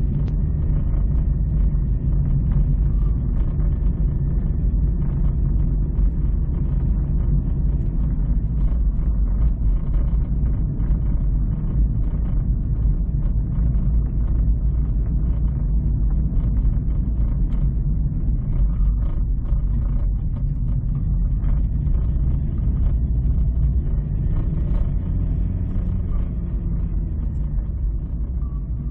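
A car driving, with a steady low rumble of engine and road noise; the engine note rises and falls a little near the start and again near the end.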